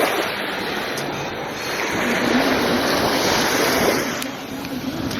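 Loud, steady rush of water with wind noise on the microphone, and a faint low engine-like tone underneath.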